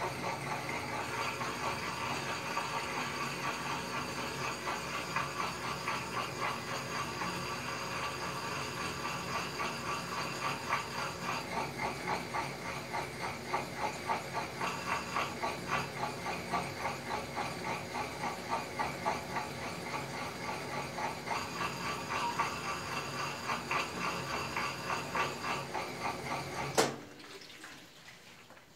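Brastemp Advantech Wash washing machine running its wool/extra-delicate cycle: water sloshing with a steady rhythmic pulsing as the drum works the load. About 27 seconds in, a sharp click cuts it off and it goes almost quiet.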